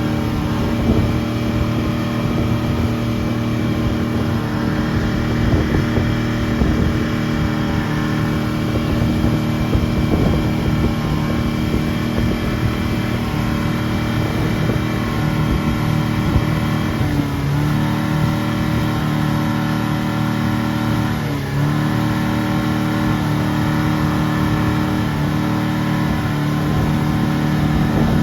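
Motorboat engine running steadily at speed while towing a banana boat, its pitch dipping briefly twice about two-thirds of the way through.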